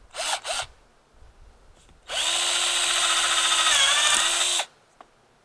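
Electric drill: two short blips of the trigger, then a steady run of about two and a half seconds, its pitch dipping briefly near the end before it stops.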